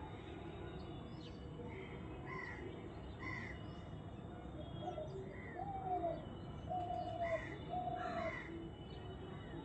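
Birds calling in the background: a scatter of short chirps and, from about halfway through, three or four short even-pitched calls, over a steady low background noise.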